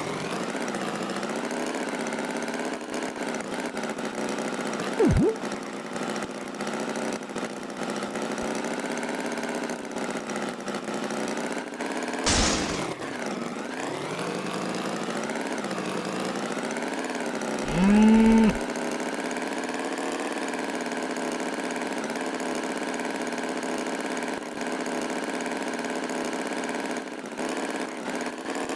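Farm tractor engine running steadily at idle. A single cow moo comes about 18 seconds in, rising and then held briefly, and two short sudden noises come about 5 and 12 seconds in.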